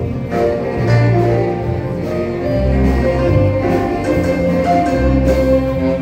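A band playing an instrumental tune: bass notes changing about once a second under a melody line.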